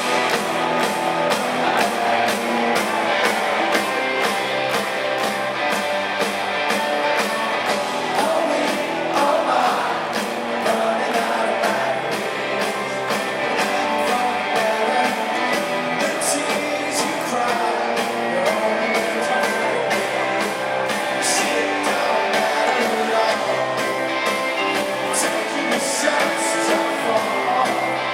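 Live rock band playing, electric guitars and drums over a steady beat.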